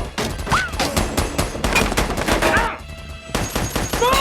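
Film sound effects of rapid automatic gunfire, shot after shot in quick succession with a brief lull about three seconds in, under an action music score.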